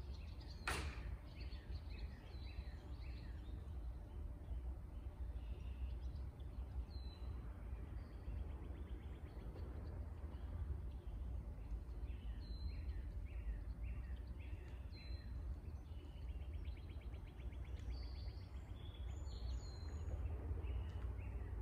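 Songbirds calling over a steady low rumble of background noise: repeated short falling notes a few times a second, scattered high chirps, and a fast trill in the second half. A single sharp click about a second in.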